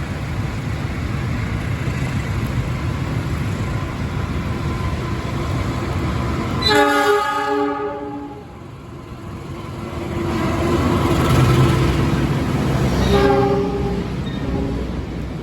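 Argo Dwipangga train's diesel locomotive sounding its horn twice, a chord of several tones for about a second each, about seven seconds in and again near the end, over the steady rumble of the passing train.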